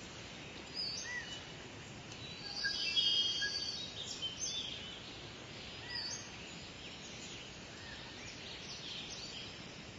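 Several birds chirping and singing in short whistled calls over a steady background hiss, with a louder warbling phrase about three seconds in.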